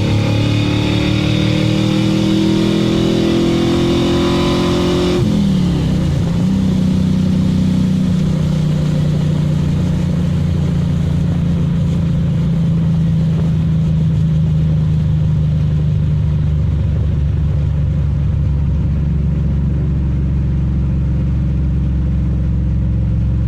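A carbureted Chevy small-block V8 with an LT4 hot cam, warming up after a cold start with no choke. For about five seconds the engine is held at raised revs that slowly climb. It then drops off suddenly, wavers briefly and settles into a steady idle.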